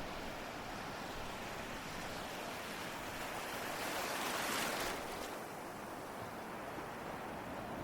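Ocean surf washing steadily, with one wave swelling louder about four seconds in, breaking, and then easing back.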